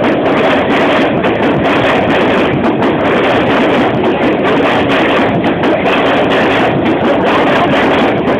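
Suburban train running: a steady, loud rumble and rattle.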